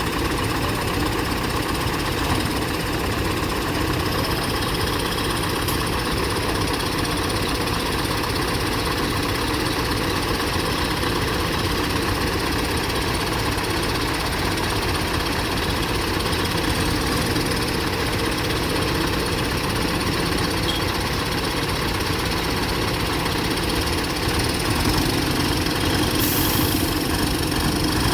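Diesel engine idling steadily, growing a little louder near the end.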